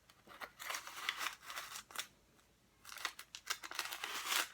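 Scoop digging into ground coffee and tipping it into a paper filter: dry scraping and paper rustling in two spells with a short pause between.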